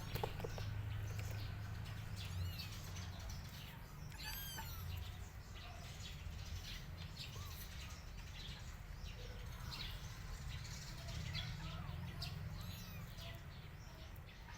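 Small birds chirping: many short, quick chirps scattered throughout, over a steady low hum.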